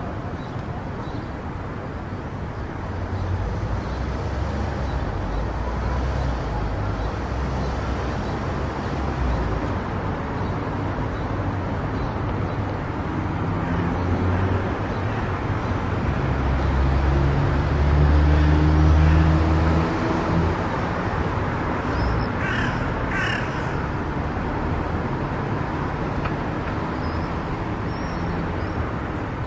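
Car driving on a highway: steady tyre and road noise with a low engine drone that swells and grows louder for a few seconds past the middle. A few short, harsh calls a little after that.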